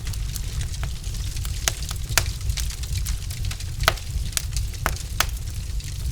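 Wood fire in a fireplace crackling, with irregular sharp pops from the burning logs over a steady low rumble.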